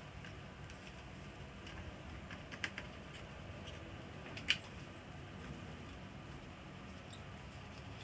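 A few light clicks and ticks of small hard parts being handled, over a low steady hum; the sharpest click comes about four and a half seconds in.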